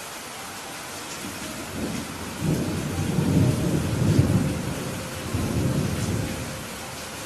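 Steady rain with a roll of thunder that builds about two seconds in, rumbles for several seconds and fades out near the end.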